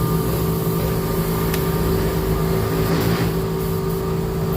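A steady motor hum holding several fixed tones, with a brief hiss a little after three seconds in.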